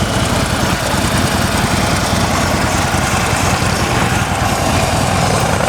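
2015 Harley-Davidson Ultra Classic Low's 103 cubic inch V-twin engine idling steadily.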